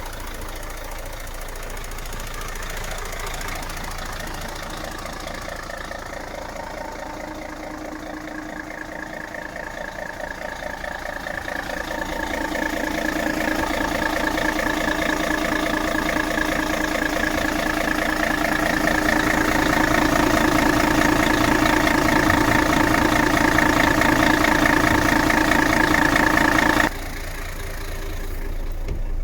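Mercedes-Benz Actros 2544's V6 diesel engine idling steadily with a diesel clatter, growing louder through the middle, then dropping suddenly in level near the end.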